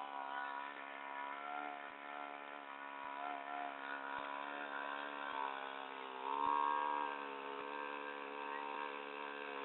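Small engine of a homemade propeller-driven boat (a 'wind scooter') running steadily, rising in pitch and getting louder for about a second a little past the middle.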